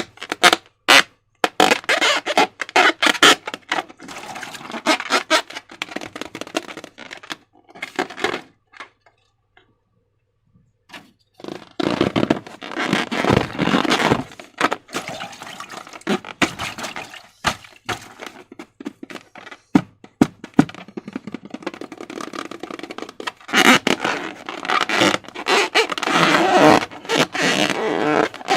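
Slime being squished and worked by hand: a dense run of wet clicks, crackles and squelches, stopping for a few seconds about a third of the way in and then starting again.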